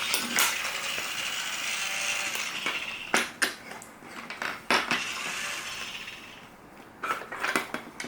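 Plastic toy tool pieces clattering and clicking as they are handled: a rustling rattle at first, then a few separate sharp clicks.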